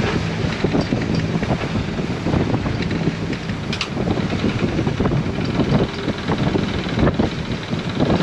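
A boat's engine running steadily, with wind noise on the microphone and irregular knocks and clicks over it.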